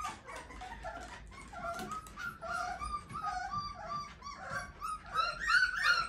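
A dog whining in a string of short, high-pitched whimpers, louder near the end.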